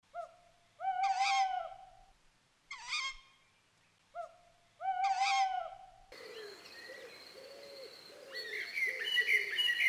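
Three drawn-out bird calls, each opening with a short rising note, the middle one shorter than the other two. About six seconds in, a steady background of many birds chirping and calling at different pitches takes over.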